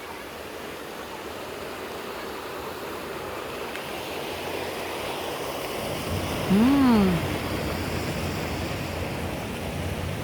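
River water rushing steadily. About two-thirds of the way through, a short pitched call rises and then falls in pitch, louder than the water.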